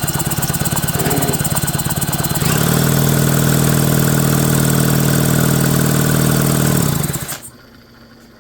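McCulloch 5-10E chainsaw's built-in electric starter cranking the engine over: a fast pulsing churn at first, then a steady, louder spin from about two and a half seconds in. It stops suddenly near the end, and the clutch is turning.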